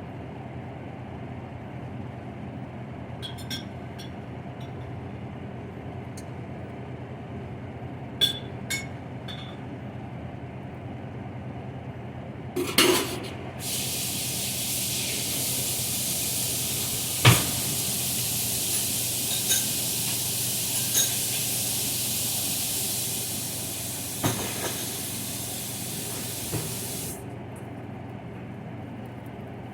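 Kitchen work sounds: a few light clicks, a loud clatter, then a steady hiss for about thirteen seconds that stops suddenly, with a few knocks during it, over a low steady hum.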